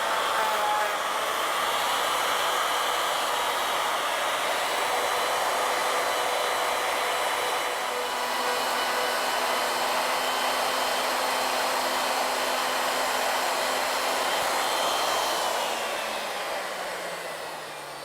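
Router running with a surface planing bit, milling a square-cornered wood blank round on an ornamental mill. About three seconds from the end the router is switched off and winds down, its whine falling in pitch.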